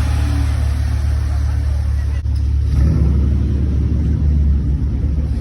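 Car driving, with a steady low engine and road rumble that swells slightly about three seconds in.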